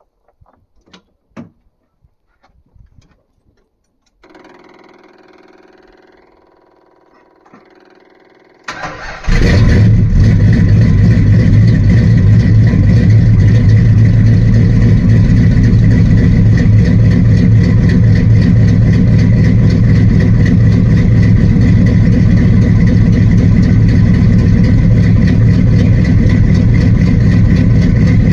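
A few faint clicks and a faint steady hum. About nine seconds in, the 1972 Dodge Charger's 383 cubic-inch big-block V8 cranks briefly and fires on a cold start, then runs loud and steady.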